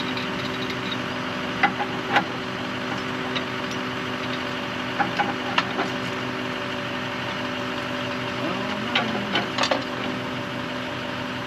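An engine idling steadily, with a few sharp metal clicks and knocks from handling well pipe and pump parts, in small clusters about two seconds in, around five seconds in and near the end.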